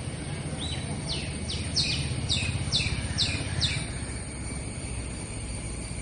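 A bird calling a quick series of about eight high notes, each sliding sharply downward, roughly two a second, over a steady low background rumble.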